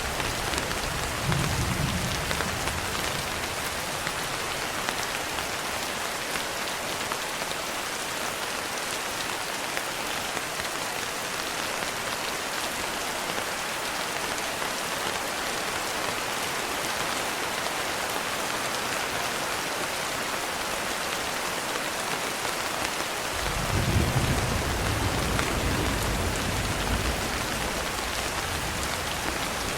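Steady rain falling, an even hiss of many drops. Low rolls of thunder come in briefly near the start and again for a few seconds near the end.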